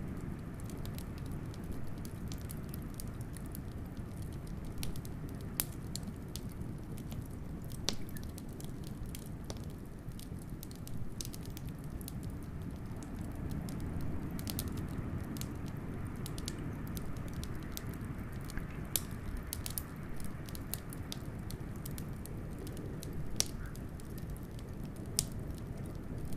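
Wood fire crackling, with irregular sharp pops and snaps, over a steady low rush of blizzard wind that swells a little now and then.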